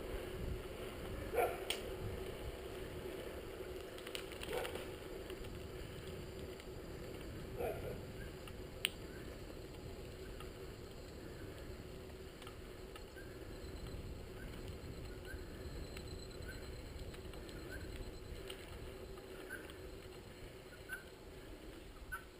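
Riding a bicycle: wind buffeting the microphone and road noise, under a steady hum. A few sharp knocks come in the first half, and faint short squeaks repeat about once a second in the second half.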